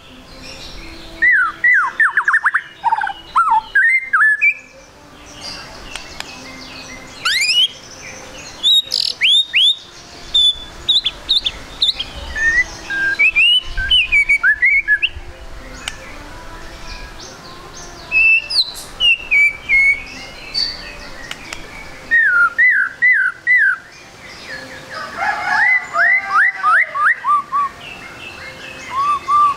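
White-rumped shama (murai batu) singing in bursts of varied whistled phrases, some of them quick runs of sweeping notes, with short pauses between phrases.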